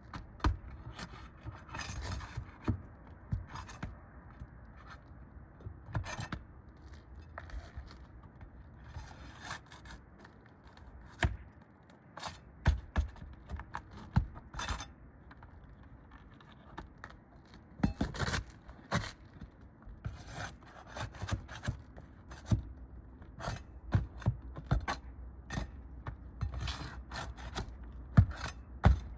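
A metal hand tool scraping against asphalt roof shingles and clicking on roofing nails in irregular short strokes, as nails are worked loose from under a sealed shingle.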